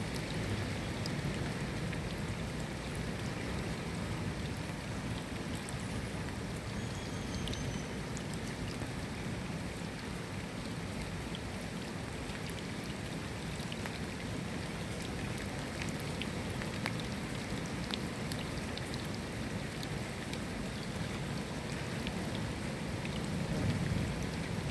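Steady rainfall: an even hiss of rain with many individual drops ticking on surfaces. A low rumble swells near the end.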